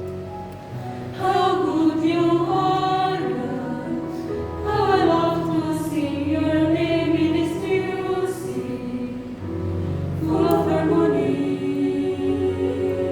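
Choir of women's voices singing in sustained sung phrases with held notes. New phrases swell in about a second in, near five seconds and again near ten seconds.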